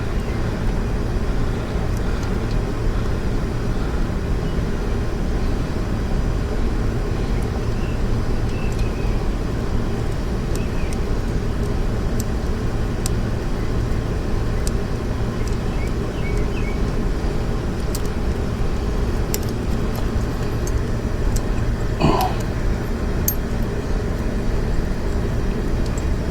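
A steady low rumble of background noise, with scattered light clicks and clinks of hand tools and metal parts, most of them in the last third.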